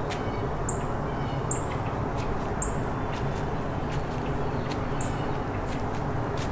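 A small songbird giving short, sharp, high chip notes, one every second or two, over a steady low rumble. Faint scattered ticks and crackles sound in between.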